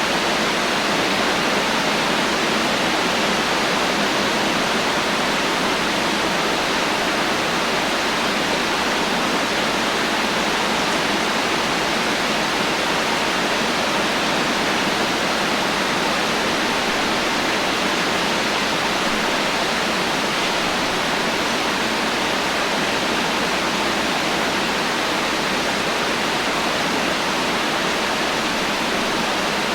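Heavy rain falling steadily, a dense, even hiss with no thunder or other sudden sounds.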